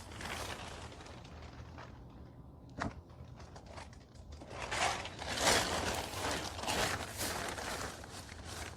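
Supplies being handled and moved about: a single knock about three seconds in, then a stretch of rustling and scraping.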